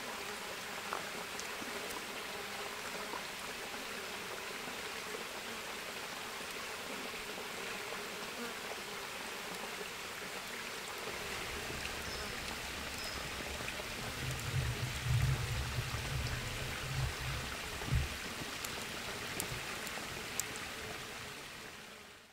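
Outdoor forest ambience: a steady, even hiss, with low rumbling from about halfway through and a few faint ticks. It fades out at the very end.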